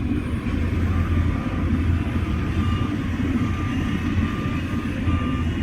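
Heavy diesel machinery running with a steady deep rumble. A faint reversing alarm beeps repeatedly over it from about a second in.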